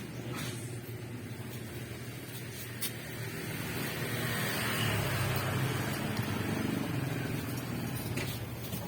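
A vehicle engine running steadily, growing louder from about three seconds in, holding for a few seconds, then easing off near the end.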